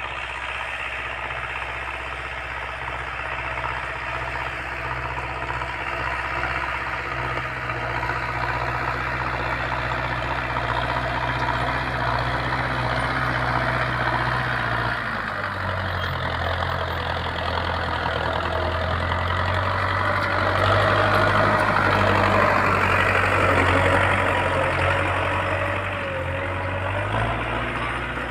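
Tractor engine running steadily while working a field. Its engine note drops a little about halfway through and rises again near the end.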